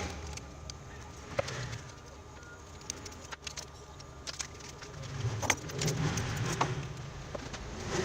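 Scattered light clicks and clinks, as of small metal parts being handled, over a low steady hum; the hum swells about five seconds in.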